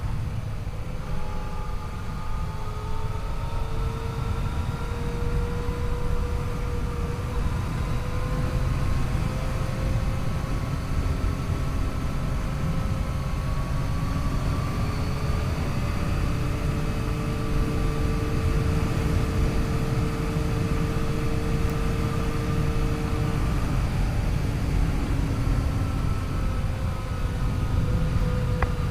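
Yamaha FJ-09's 847 cc inline three-cylinder engine running under way, its pitch slowly rising and falling with throttle and road speed, over a steady low rush of wind and road noise.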